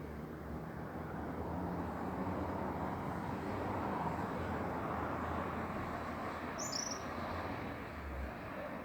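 Steady rushing outdoor background noise, with a bird giving two short, high chirps about seven seconds in.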